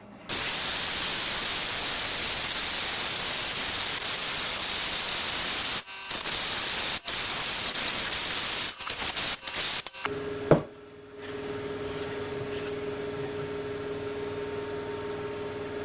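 A power cutting tool cuts a thin sheet-metal shim with a loud, harsh, even hiss. The hiss stops and starts briefly a few times and ends about ten seconds in with a sharp click. A quieter steady hum with a held tone follows.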